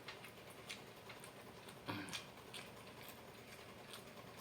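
Faint eating sounds: scattered small wet clicks of chewing crispy fried chicken, with a slightly louder mouthful about two seconds in.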